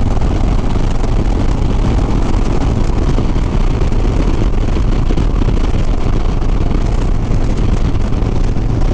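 Steady wind rush on the microphone over a Harley-Davidson Sport Glide's V-twin engine running at highway cruising speed.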